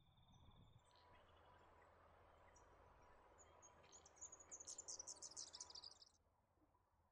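Faint outdoor background hiss, with a rapid run of very high-pitched bird chirps about four seconds in that lasts roughly two seconds and then stops abruptly.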